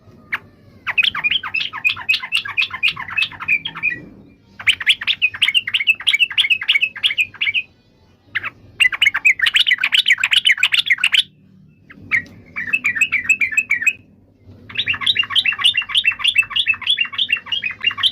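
Yellow-vented bulbul (trucukan) singing in five bouts of fast repeated notes, each bout two to three seconds long, with short pauses between.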